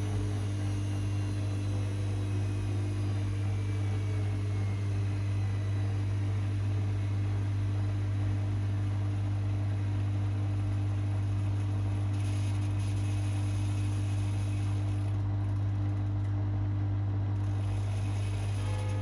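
Privileg 5020 front-loading washing machine running with a steady low hum, with a faint whine falling slowly in pitch over the first few seconds.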